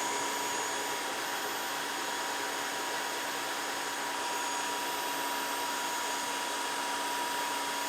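Dreame H11 Max cordless wet-dry floor cleaner running its self-cleaning cycle in its dock: a steady motor whir with constant high whining tones, the roller brush being rinsed and the dirty water sucked away.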